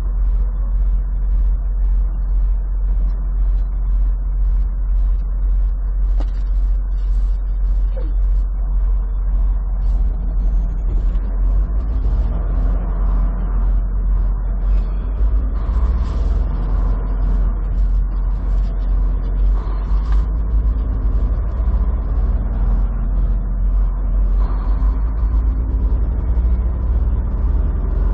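Semi truck driving on the highway, heard from inside the cab: a steady low engine and road rumble with a faint regular ticking over it.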